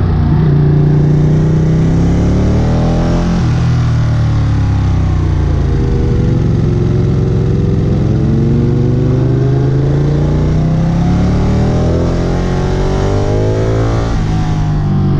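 Sport motorcycle engine pulling through a series of corners, its pitch climbing, dropping sharply about three seconds in, then easing down and climbing slowly again before dropping near the end. Wind noise runs underneath.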